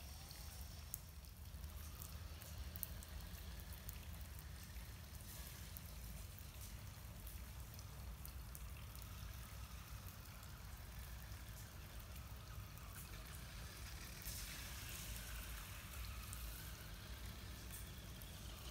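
Light rain falling, with scattered drop ticks over a steady low rumble.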